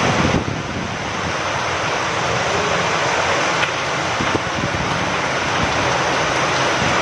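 Steady rain falling with wind blowing through it, a continuous even hiss.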